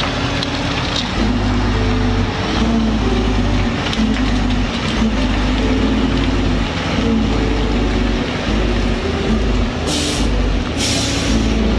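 Heavy truck running, with two short hisses of released air about ten and eleven seconds in, typical of air brakes.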